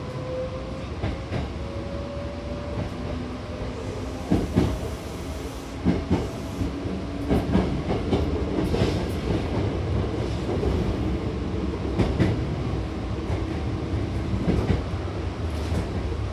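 Hankyu electric train heard from inside the car while under way: a whine rises in pitch over the first few seconds as it picks up speed, over steady running noise, with wheels clicking over rail joints in pairs every second or so.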